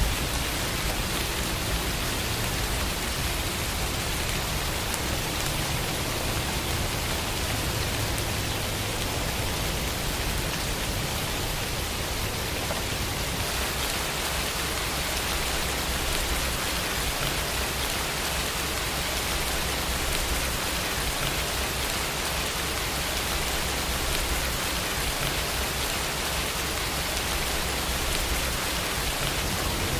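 Steady rain falling, an even hiss that grows a little brighter about halfway through.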